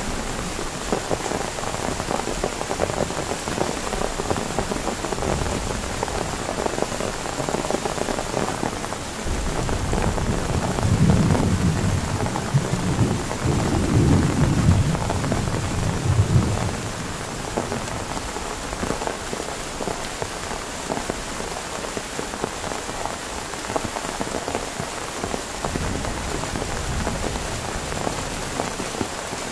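Heavy rain falling steadily, with a long low rumble of thunder that builds about nine seconds in and fades out about eight seconds later.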